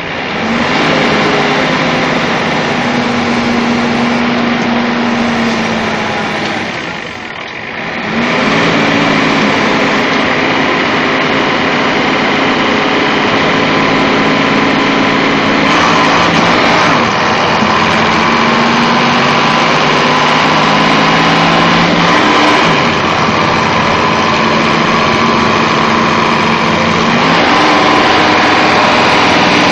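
Diesel engine of a Mercedes-Benz OF-1721 bus running, its pitch holding steady and then stepping up or down several times. The level dips briefly about seven seconds in, and a higher whine joins from about halfway through.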